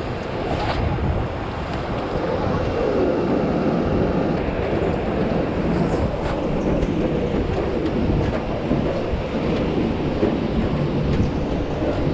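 Steady loud rumble mixed with wind buffeting the microphone, with a few faint clicks.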